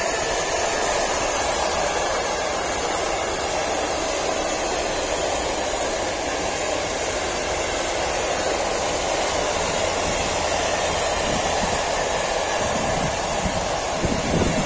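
Long freight train of open coal wagons rolling past, a steady noise of wheels running on the rails, behind a 111Ed Dragon electric locomotive whose whine fades away in the first moment.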